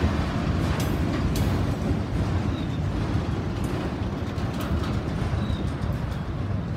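Autorack freight cars rolling past close by: a steady rumble of steel wheels on rail, with scattered clicks and clanks and a couple of faint, brief squeaks.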